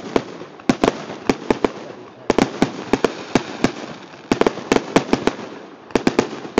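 Fireworks finale: rapid, irregular volleys of aerial shell bursts and reports, coming in dense clusters with brief lulls about two seconds in and near the end, recorded through a phone's microphone.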